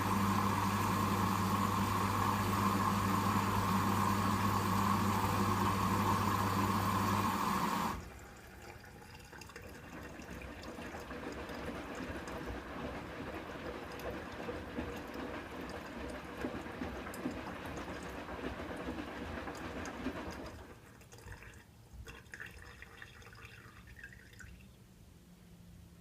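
Hoover WDYN 11746 PG8 washer-dryer: a steady machine hum with a strong low tone cuts off about eight seconds in, then water runs into the drum for about twelve seconds, and only faint trickles and drips are left after that.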